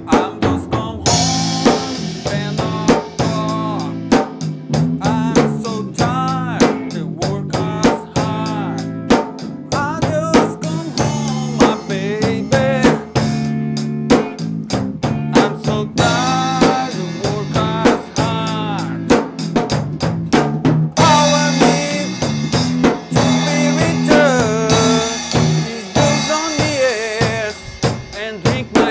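Rock band playing an instrumental passage: a drum kit keeps a steady beat with snare and bass drum under a bass line and a lead melody that bends in pitch.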